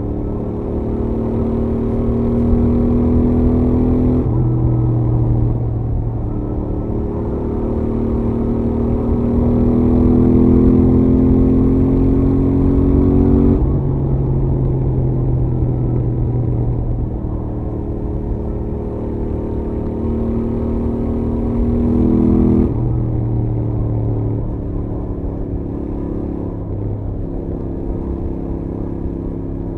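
Royal Enfield Interceptor 650's 648 cc parallel-twin engine with its stock exhaust, running at highway speed. Three times its note climbs slowly under throttle and then drops suddenly, about 4, 14 and 23 seconds in, over steady road and wind rumble.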